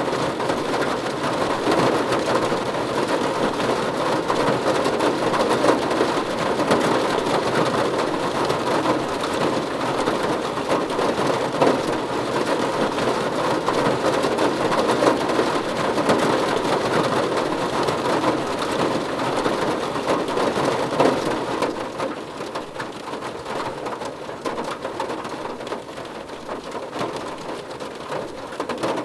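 Steady, dense rain falling on a surface, easing somewhat about 22 seconds in.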